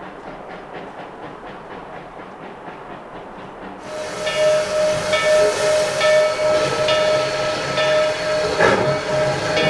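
Narrow-gauge steam locomotive D&SNG 493 running with a steady rhythmic clatter. About four seconds in, a loud rush of steam hiss starts suddenly with a steam whistle tone held over it, the sound pulsing at a steady beat.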